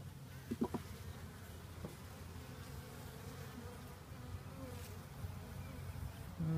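A honeybee colony buzzing steadily around an opened hive, the bees agitated. A few light knocks come about half a second in, and near the end a single bee buzzes loudly close by.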